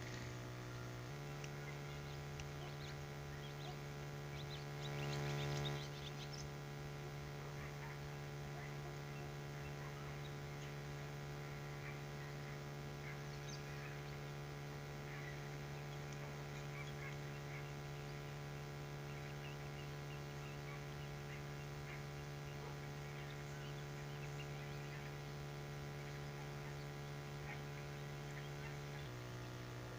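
A steady electrical-sounding hum with many even overtones, shifting slightly in pitch about a second in and again near the end. About five seconds in, a brief louder call rises above it.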